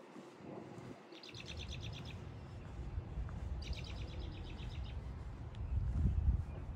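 A songbird sings two short trills of quickly repeated high notes, the first about a second in and the second a couple of seconds later, over a steady low rumble that grows louder near the end.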